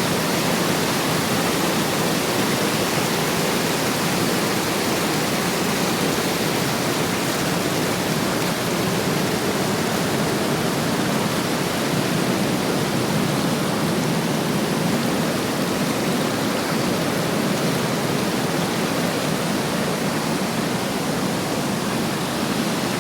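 Water rushing down a tiered, step-like waterfall: a loud, steady, dense rush that never lets up.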